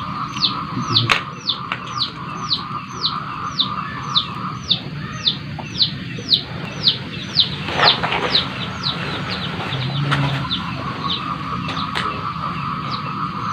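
A bird calling with a short, high, falling note repeated about twice a second, thinning out after about eight seconds, over a steady high-pitched hum.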